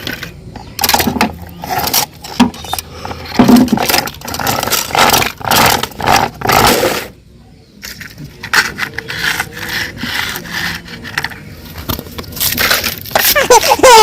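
Toys being handled and pushed about, irregular scraping and clattering with a short pause about halfway through.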